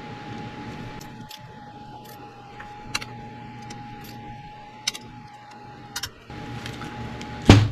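A few sharp, separate metallic clicks and clinks of hand tools on the engine as the exhaust bolts are snugged and torqued, the strongest one near the end. A faint steady high tone hums underneath.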